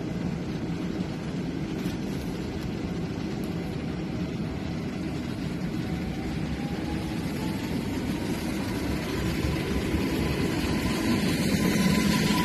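Electric multiple unit moving off along a platform: a steady low rumble, with a whine that rises slowly in pitch from about halfway through as the train gathers speed, the sound growing louder near the end.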